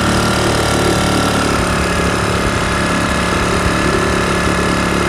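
A boat's engine running steadily with an even, unchanging drone.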